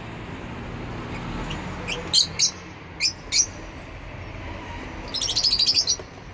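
Lovebirds chirping: four sharp, high calls in two pairs, then a quick run of rapid chattering notes about five seconds in.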